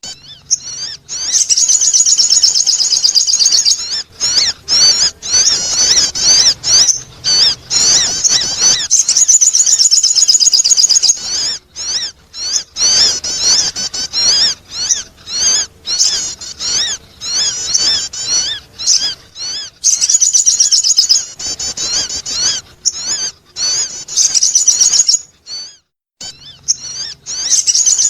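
Sogon bird lure call: rapid, high-pitched twittering song in bursts of a few seconds, with short breaks between them.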